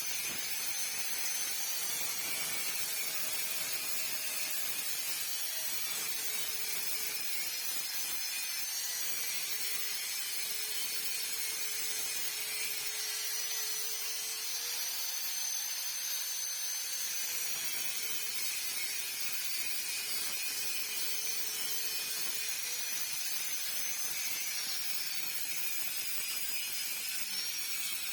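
Handheld electric power tool running continuously, its motor pitch dipping and recovering every few seconds as it is pressed into the work.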